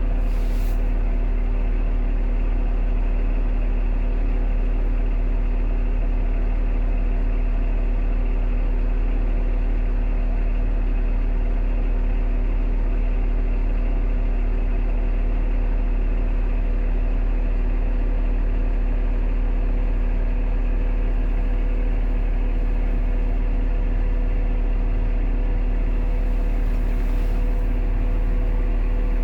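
An engine idling, a steady, unchanging drone.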